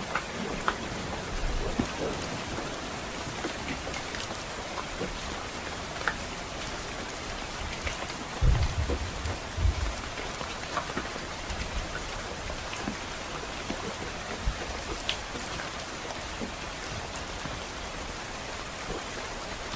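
Steady rain falling, with scattered sharp crackles and pops from a wood fire in a fireplace. About eight and a half seconds in, a low rumble of distant thunder swells for a second or two.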